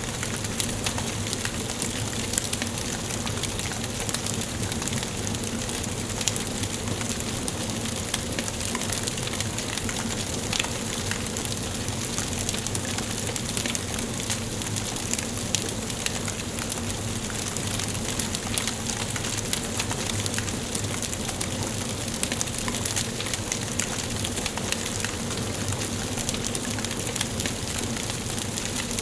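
Wood fire burning in a fireplace: a steady hiss with many small, sharp crackles and pops.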